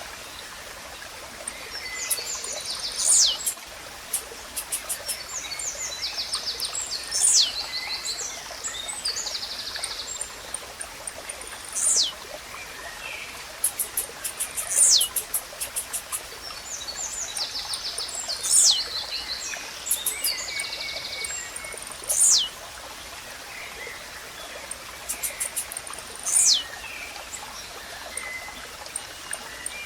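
Blue-black grassquit (tiziu) singing its short, sharp song, a note sweeping downward, repeated about every four seconds. Softer, rapid chattering notes from other birds fall between, over a steady stream-like hiss.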